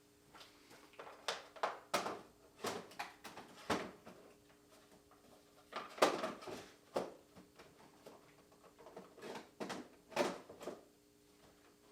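Tools clattering and clicking as they are picked up and set down, in four bursts of sharp knocks, over a faint steady hum.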